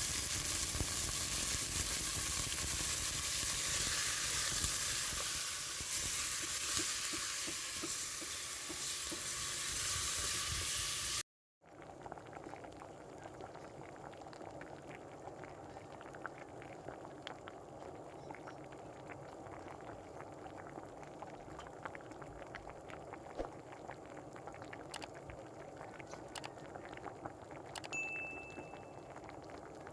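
Food frying in hot oil in a pan, a loud steady sizzle. After an abrupt cut about eleven seconds in, a quieter sound follows: a braise simmering, liquid bubbling with many small pops.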